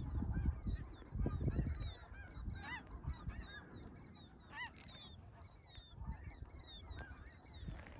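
A large flock of snow geese calling: a dense, continuous chorus of short, high honks overlapping one another. A low rumble sits under it for the first couple of seconds.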